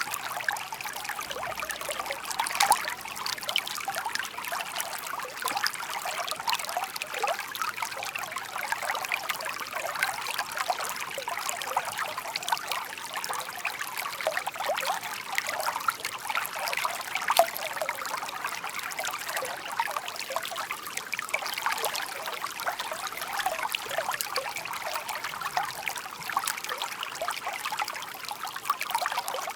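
Shallow stream babbling steadily over stones, a constant trickling and splashing of small ripples.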